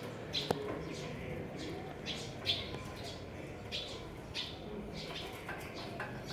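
Birds chirping in short, repeated calls, with a sharp click about half a second in.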